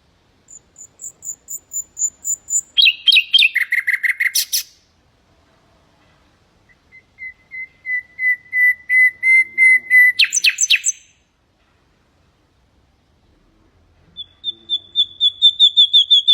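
Common nightingale singing in three phrases. Each phrase opens with a run of evenly repeated whistled notes that grows steadily louder. The first two phrases break into fast, lower trills, and the third starts near the end.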